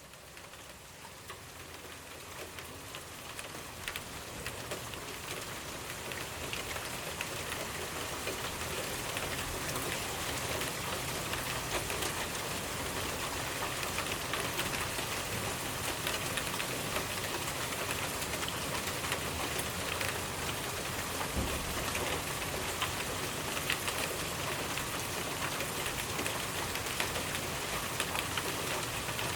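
Steady rainfall pattering on a surface, with many individual drops ticking through it; it fades in over the first several seconds, then holds steady.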